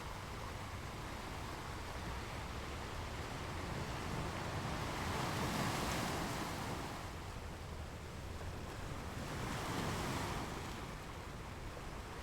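Ocean waves washing ashore in a steady hiss of surf, swelling twice as waves break, about halfway through and again near the end.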